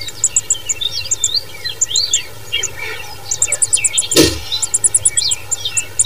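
High-pitched begging chirps of Loten's sunbird nestlings at the nest: rapid, dense twittering of short high notes and quick rising and falling calls. A single sharp knock sounds about four seconds in.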